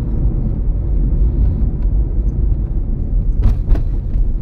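Steady low road and tyre rumble of a moving 2007 Toyota Prius, with two short clicks a quarter-second apart about three and a half seconds in.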